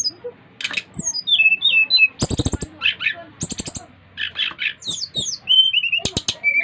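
SRDC (sikatan rimba dada coklat) songbirds singing: a string of short whistled notes and slurred glides broken by quick, dry rattling phrases.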